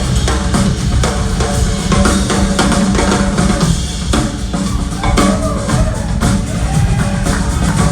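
Live rock band playing loudly with the drum kit to the fore: kick, snare and cymbals over bass, with bending guitar lines coming in over the second half.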